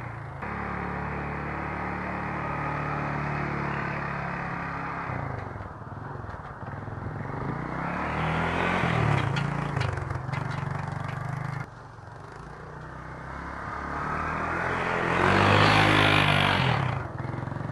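Honda TRX200SX quad's single-cylinder four-stroke engine revving up and falling back as it is ridden around in snow, loudest twice, about eight and fifteen seconds in. The drive chain is worn and slaps, already adjusted all the way out.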